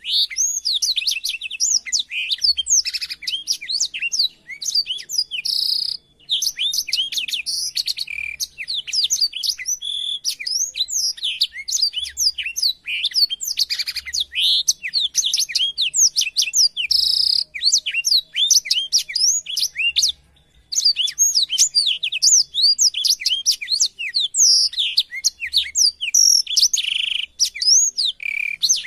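Black-throated canary (blackthroat) singing a long, fast run of twittering chirps and whistled notes, with short breaks about six and about twenty seconds in.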